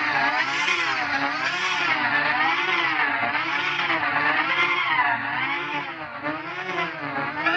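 Electronically processed sustained buzzy tone with many overtones, warbling up and down in pitch about twice a second: a wobble effect laid over an edited logo sound.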